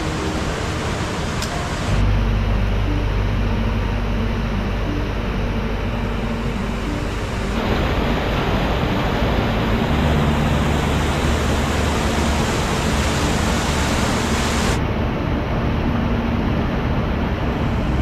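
Steady rushing water of a rain-swollen mountain valley stream, whose noise changes abruptly three times.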